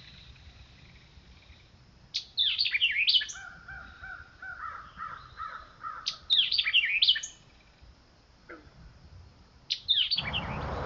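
A songbird singing twice, each time a loud phrase of quick sweeping high notes, with softer lower notes repeated between the phrases. A third phrase begins near the end and runs into a rush of rustling noise.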